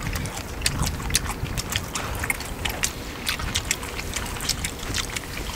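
Men chewing and eating at the table: a string of irregular wet mouth clicks over a low rumble.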